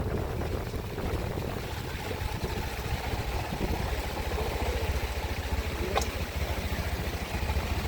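Steady rushing noise of a flooded river, with wind buffeting the microphone. About six seconds in, a short rising squeak cuts through.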